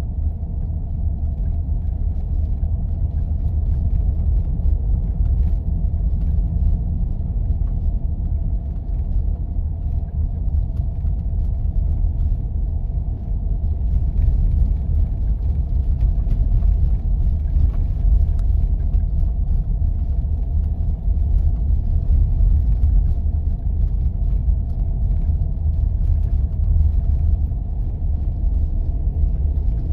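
Jeep driving on snow-covered roads: a steady low rumble of engine and tyres, with a faint steady hum above it.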